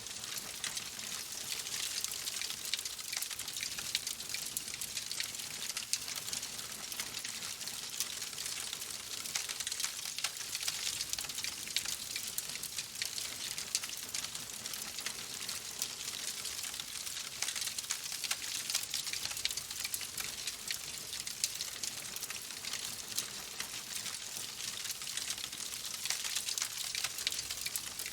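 Wood fire crackling in a fireplace: a steady hiss with many small pops and snaps throughout.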